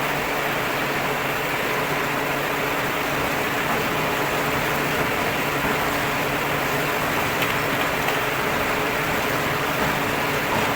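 Steady mechanical running noise with a low hum underneath.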